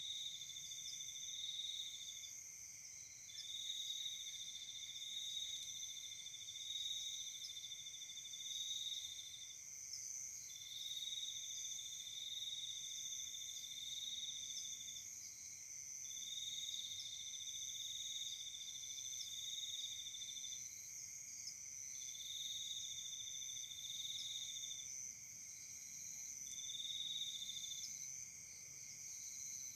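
A chorus of night insects calling: several steady high-pitched trills at different pitches, one of them going in long phrases of two to five seconds broken by short pauses.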